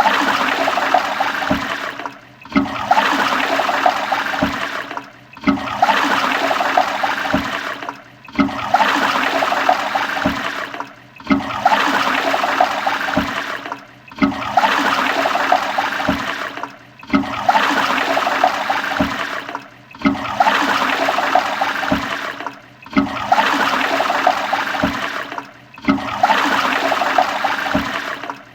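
Toilet flushing: a rush of water that breaks off briefly and starts again about every three seconds, the same flush repeating about ten times.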